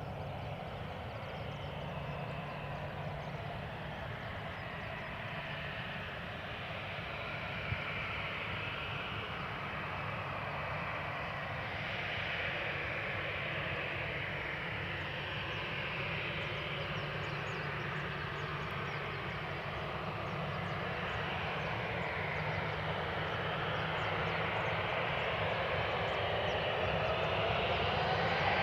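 Boeing 737-800's CFM56-7B jet engines running steadily at low power, then spooling up for the take-off run: the sound grows louder over the last several seconds, and a whine rises in pitch near the end.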